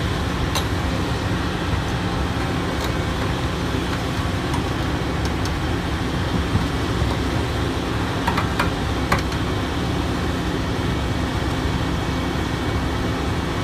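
Heavy machinery engine running steadily at a low hum, with a few sharp metallic clanks: one about half a second in, one near three seconds, and three close together past the middle.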